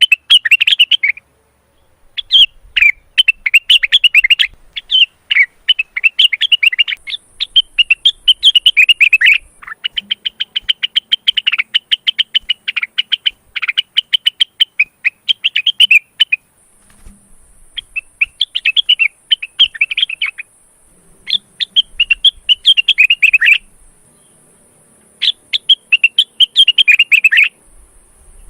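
Male cucak wilis (rengganis) leafbird in breeding condition singing: fast, chattering song phrases of one to three seconds, one after another with short pauses between them.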